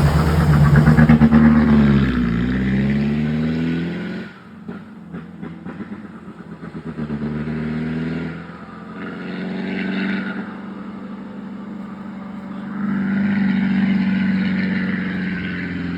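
Diesel truck engine working hard under load, loud at first. Its pitch slides down about two seconds in and it fades about four seconds in. Engine sound then rises and falls again twice, quieter, later on.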